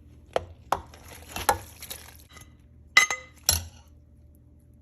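Kitchen utensils clinking and scraping against a soup pot and bowls as soup is served out. There are about five sharp clinks, and the loudest, about three seconds in, rings briefly.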